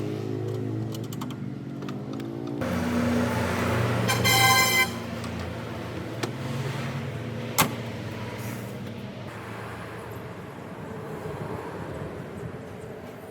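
A vehicle engine running and shifting in pitch, with a brief horn-like tone about four seconds in and a sharp click a few seconds later.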